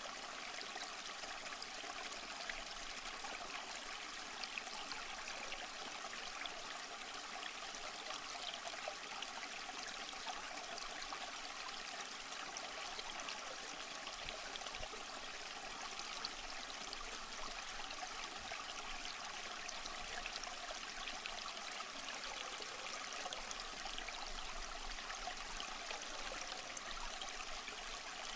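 Small stream flowing and trickling over rocks, a steady rushing and babbling of water.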